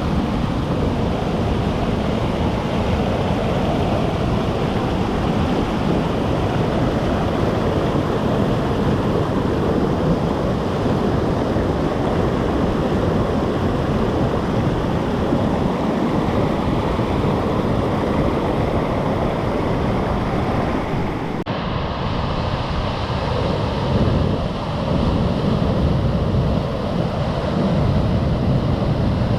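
Rushing water of a rain-swollen stream in flood, a loud steady wash of noise. About two-thirds of the way through it cuts to another swollen river with a slightly different sound.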